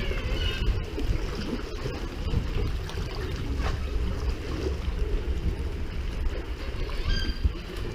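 Wind buffeting the microphone as a rumble, over water sloshing around a sea kayak.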